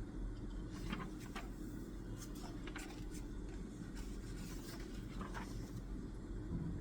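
Pen writing on paper: a run of short, faint scratching strokes that starts about a second in and stops about five and a half seconds in, over a steady low room hum.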